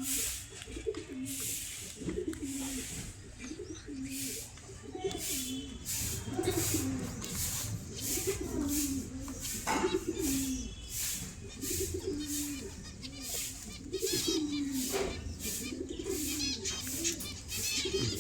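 Birds giving repeated low, warbling coos, about one to two a second, over frequent short ticking sounds. A run of higher chirps comes in near the end.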